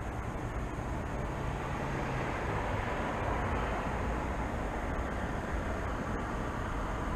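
Steady road traffic noise, swelling a little as a vehicle passes about three to four seconds in, with a low engine hum in the first two seconds.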